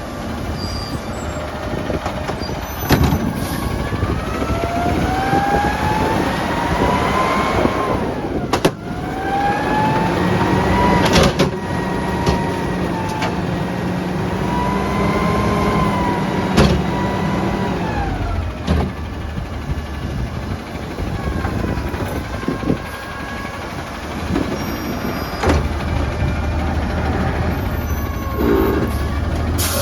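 Autocar ACX front-load garbage truck with a Heil DuraPack Half/Pack body working a dumpster: the engine revs up and down in rising and falling sweeps to drive the hydraulics, with several sharp metal bangs and clanks about every few seconds.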